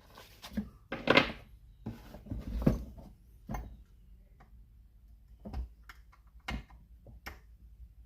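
Irregular knocks and clicks from chainsaws and their small parts being handled and set down, about half a dozen clear strikes with the loudest a little over a second in.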